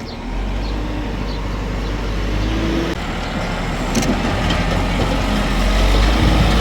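A heavy engine running steadily with a deep rumble that grows louder, as on site machinery for a concrete pour. There is a brief knock about four seconds in.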